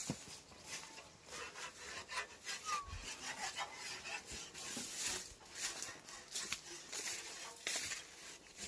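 Irregular rustling and scraping of chopped napier grass being handled for silage: short dry rasps and crackles coming one after another.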